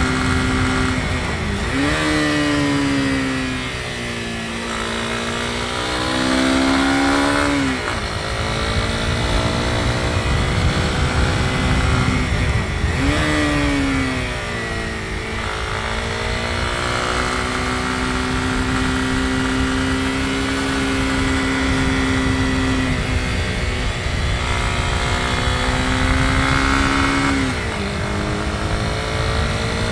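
Honda CB250R's single-cylinder four-stroke engine running under way, its pitch climbing and dropping through several gear changes and throttle changes, over a steady rush of wind and road noise.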